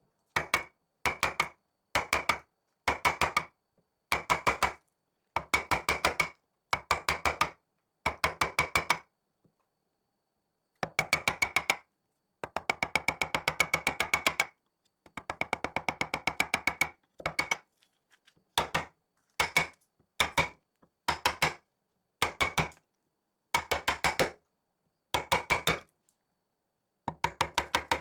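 Rapid wooden tapping: short runs of quick, sharp knocks on wood, about one run a second, with a few longer runs near the middle and clean silence between them.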